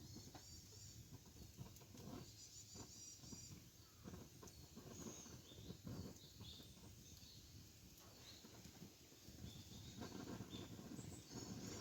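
Wood campfire crackling softly, with scattered sharp pops, while small birds chirp in short repeated phrases.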